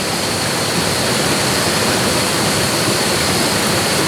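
Steady rushing noise like a stream or running water, unchanging throughout, with a thin steady high-pitched whine above it.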